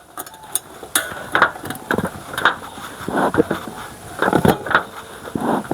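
Irregular metal clatter and knocks from a bee smoker being handled and stuffed with fuel.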